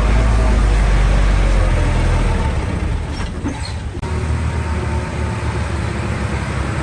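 Heavy diesel engine of earthmoving machinery running under load, a deep, steady rumble. It eases off about two and a half seconds in and breaks off sharply at four seconds, then carries on.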